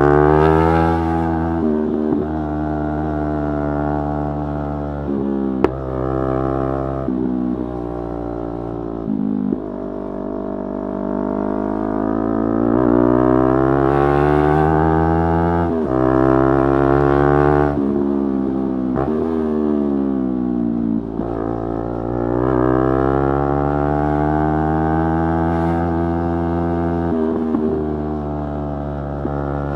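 Yamaha R3's parallel-twin engine accelerating through the gears. Its pitch rises steadily under throttle and drops sharply at each gear change, several times over, with longer pulls in the second half.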